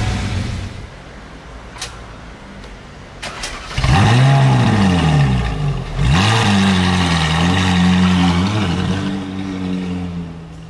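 Ferrari 458 Italia's V8 starting about four seconds in with a sharp rev flare that falls back. A second rev blip follows, then the engine settles into a high, steady cold idle. In the first second, a Lamborghini Countach's engine is still running before it drops away.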